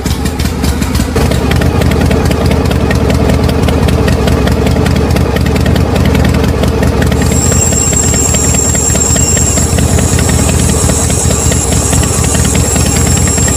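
Small engine of a DIY mini tractor running steadily while it drives a homemade flour mill, with fast, even ticking through roughly the first half.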